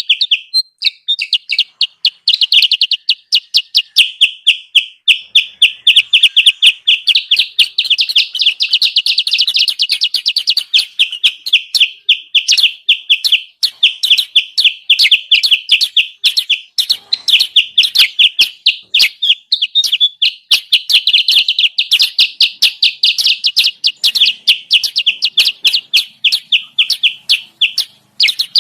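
Kutilang sutra lure call: a rapid, unbroken string of short, high chirps, several a second, played to draw wild birds of the same kind down to a trap.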